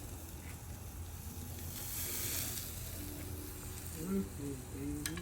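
Ribeye steaks sizzling on a small barbecue pit, a steady hiss that swells for about a second midway.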